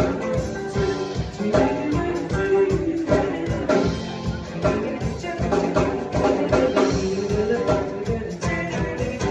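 Live band music with a steady beat and a melody line over it.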